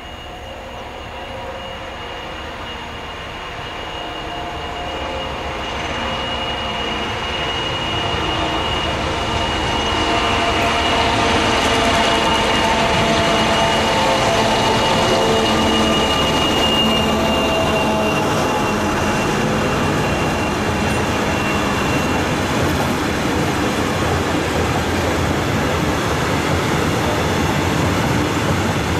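A Class 232 diesel freight locomotive approaches and passes, growing louder over the first ten seconds. Its engine note carries a steady high whine. It is followed by a long rake of tank wagons rolling past, their wheels making an even rumbling clatter.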